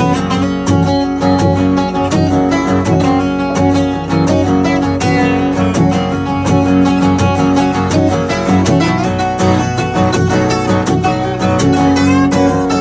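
Acoustic band playing an instrumental break, led by strummed and picked acoustic guitars, with no singing.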